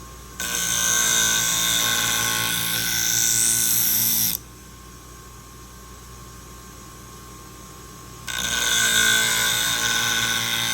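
A scissor blade being ground on a sharpening machine's 240-grit diamond wheel in two passes of about four seconds each, with a hiss that rises as the blade travels across the wheel. Between the passes the machine's motor runs on with a steady hum. This is heavy material removal at a flatter angle to grind out a damaged edge.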